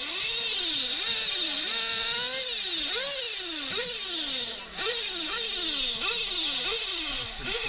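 Nitro-powered 1/8-scale RC truck engines racing on the track, revving up and down again and again, about one to two sweeps a second, over a constant high whine.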